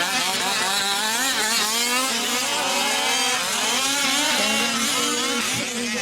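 Several 1/5-scale RC off-road trucks' small two-stroke gas engines buzzing at once, each revving up and down so that the overlapping pitches keep rising and falling as they race.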